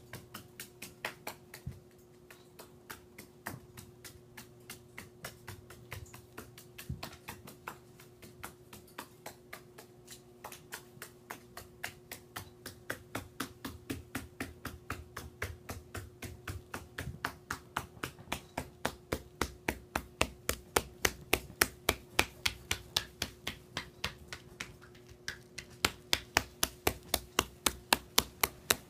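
A parrot's claws clicking on a hard floor as it walks, in a steady run of sharp taps about four a second that grows louder as the bird comes closer. A faint steady hum runs underneath.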